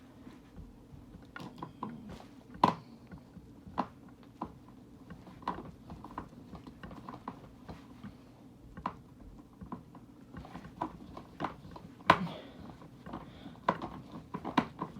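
Screws being driven by hand with a screwdriver into a plastic toy's casing, with irregular small clicks and knocks as the parts are handled. There are two sharper knocks, about three seconds in and about twelve seconds in.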